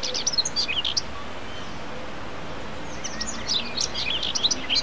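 Small birds chirping in quick clusters of short, high, sliding calls: one burst at the start and a busier one from about three seconds in, over a steady background hiss.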